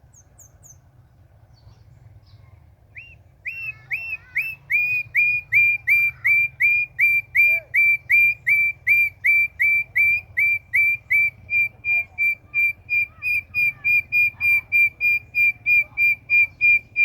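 A bird giving a long run of high whistled call notes, about three a second, starting about three seconds in; the first notes dip slightly in pitch, and the later ones are short and even.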